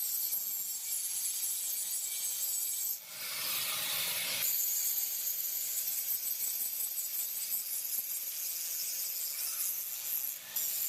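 Steady, high-pitched rasping hiss of a tool working metal, broken briefly about three seconds in and again near the end.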